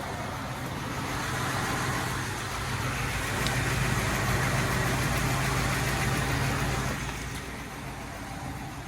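Ford 6.2 L gas V8 idling with a steady low hum. A broad rushing noise swells from about a second in and fades again near the end.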